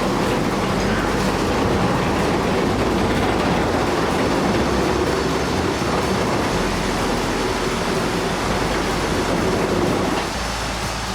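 A steady, loud rumble of heavy machinery running, dropping suddenly about ten seconds in.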